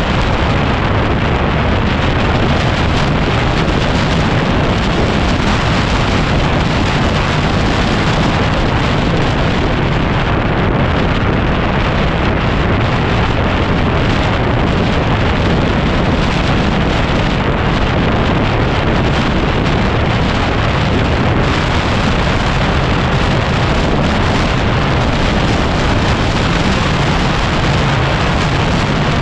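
Heavy wind noise buffeting the microphone on a moving 2010 Yamaha WR250R, with the bike's single-cylinder engine running under it, steady throughout.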